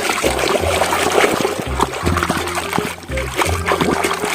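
Water splashing and trickling as a muddy toy is washed by hand in a basin of clean water, with many small irregular splashes.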